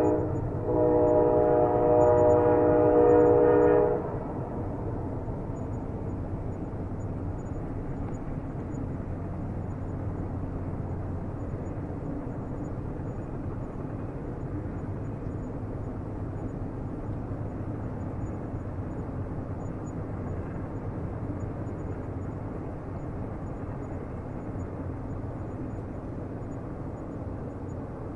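Train horn sounding a chord of several notes, broken briefly at the start and cutting off about four seconds in, followed by the steady low rumble of the train running on the rails, fading slightly toward the end.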